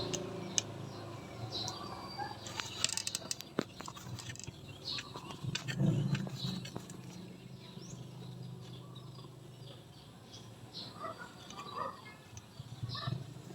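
Birds chirping in short, scattered calls over a steady low background hum, with a few sharp clicks about three seconds in.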